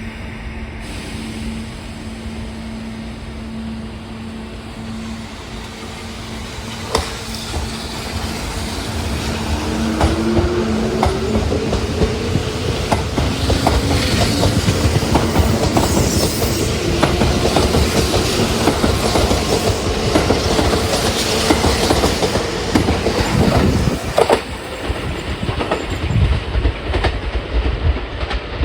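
Kintetsu 21000 series electric express train moving through the station, its wheels clacking over the rail joints. A motor whine rises slowly in pitch as it gathers speed.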